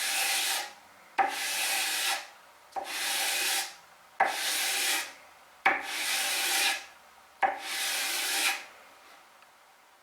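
Fine sandpaper on a sanding block dragged along the grain of a finished wooden surface: six long, even strokes about one and a half seconds apart, each starting with a light tap as the block meets the wood. The strokes stop shortly before the end.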